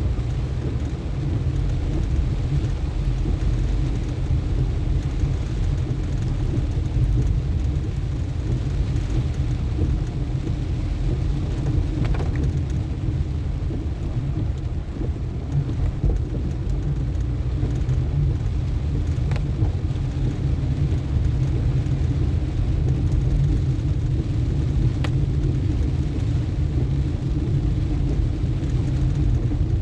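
Steady low rumble of a car driving on a wet road in the rain, with a few faint ticks now and then.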